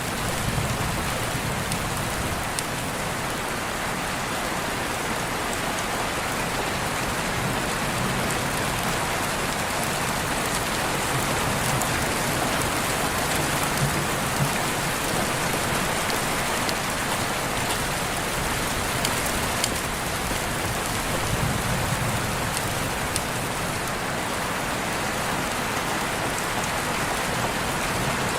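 Steady rain falling, a dense even hiss with scattered drop ticks on surfaces.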